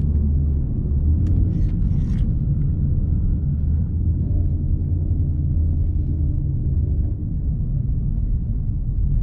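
Ford Mustang GT's 5.0 V8 with a full aftermarket exhaust, rumbling steadily at low speed with no revving, and a few short hisses about a second in.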